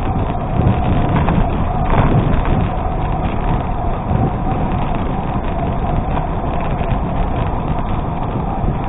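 Riding a gravel bike over an unpaved road: a steady rush of wind on the microphone, with the tyres crunching over gravel and the bike rattling.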